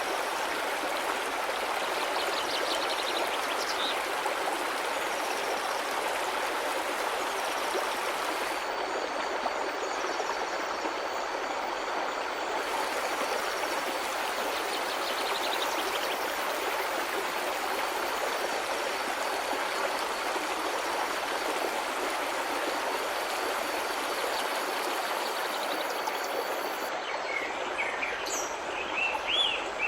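A stream of running water, a steady rush with no breaks. A few short bird chirps come through faintly early on and more clearly near the end.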